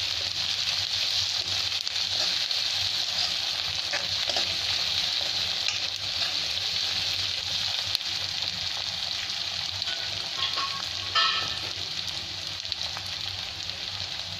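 Onions, green chillies and curry leaves sizzling steadily in hot oil in a kadai, frying toward a reddish-brown. A steel spoon stirring them scrapes and clinks against the pan a few times.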